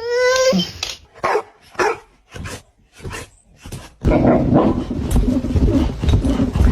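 A dog barking: a drawn-out call with a wavering pitch at the start, several short separate barks, then a loud, rough, continuous stretch of noise in the last couple of seconds.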